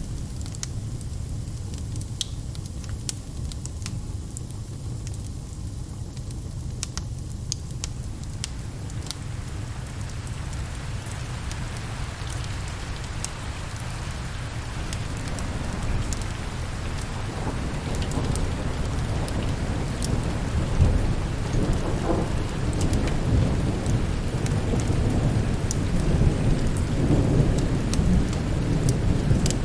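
Steady rain with rolling thunder that swells from about a third of the way in and is loudest near the end. Sharp crackles of a wood fire stand out in the first third.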